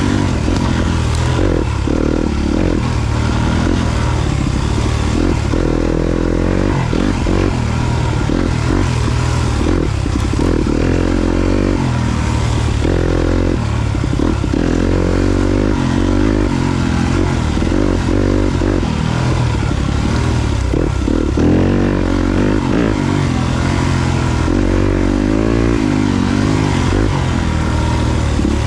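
Yamaha YZ250FX four-stroke single-cylinder dirt bike engine being ridden, revving up and easing off over and over as the throttle is opened and rolled off.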